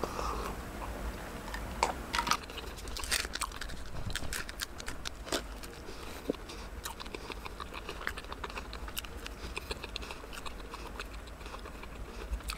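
A person chewing a bagel with cream cheese close to the microphone, with many small crunches and clicks from its crisp, coated-feeling crust.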